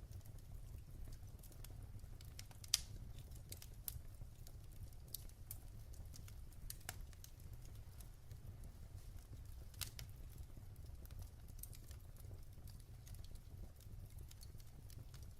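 Wood fire crackling in a fireplace: irregular sharp pops and ticks over a low steady rumble, with the loudest pop about three seconds in and another near ten seconds.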